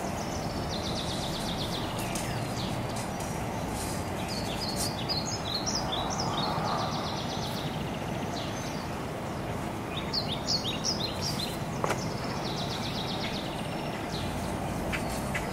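Birds chirping, with short bursts of quick high notes and rapid trills recurring every few seconds over a steady background hiss.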